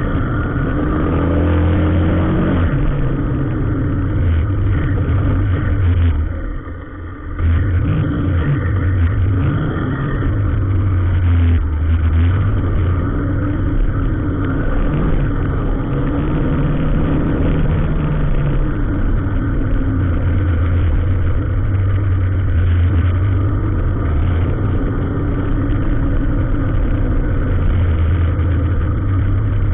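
Road vehicle engine running steadily, its pitch shifting a little, with a brief drop in level about seven seconds in.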